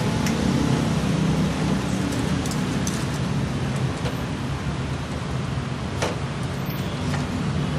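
Datsun GO+ three-cylinder petrol engine running steadily, with a constant low hum and a few light clicks.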